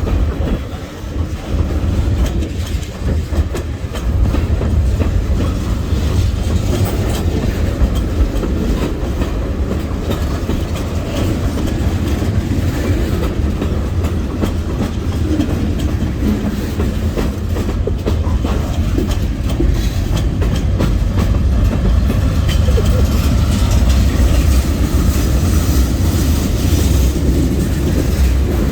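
Freight train rolling past close by: a steady low rumble with the steel wheels clicking over rail joints.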